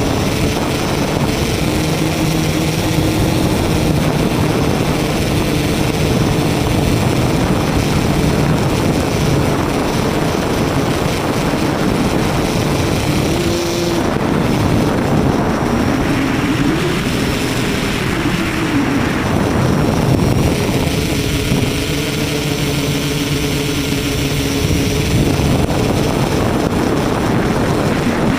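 A radio-controlled tricopter's electric motors and propellers buzzing in flight, a steady hum whose pitch rises and falls with the throttle around the middle.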